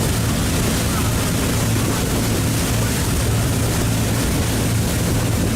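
Tour boat's engine running steadily under way, a constant low hum under a steady rush of wind and water noise.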